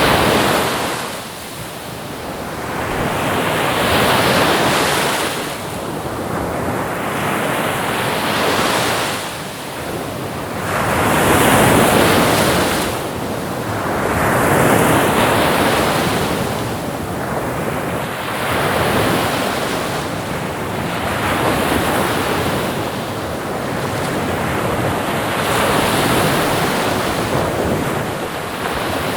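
Ocean waves breaking and washing up the shore, a surge of surf swelling and fading about every three to four seconds.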